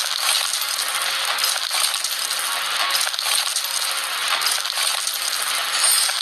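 Gravel tipped from a dump truck's bed, pouring out in a steady stream of many small stones clattering and rattling.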